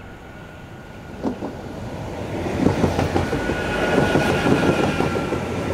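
Electric passenger train passing close by, its wheels clattering over the rail joints in quick knocks, growing louder from about a second in. A thin, steady high whine runs underneath.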